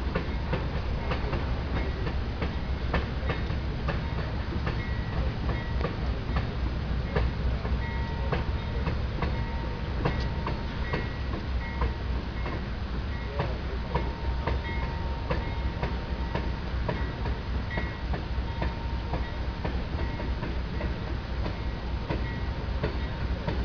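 Freight train cars rolling across a long stone arch bridge: a steady rumble with rapid clicks of wheels over rail joints. A faint, thin high squeal comes and goes.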